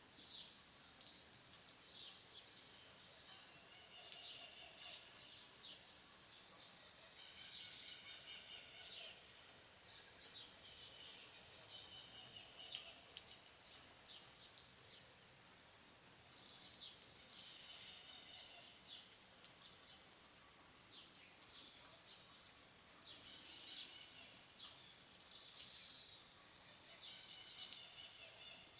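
Faint countryside rain ambience: scattered light drips, with birds calling in short bursts every few seconds.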